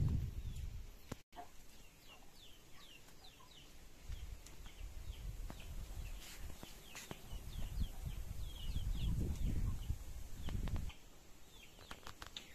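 Birds chirping: many short, high, falling chirps, several a second, over a low rumbling noise that grows louder in the second half and stops shortly before the end.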